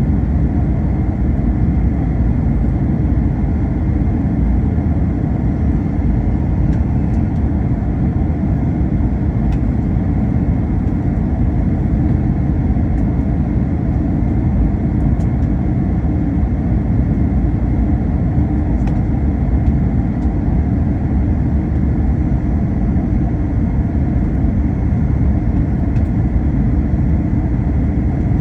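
Steady cabin noise inside an Airbus A321 airliner: a deep, even rumble of the jet engines and airflow, with a faint high steady tone above it.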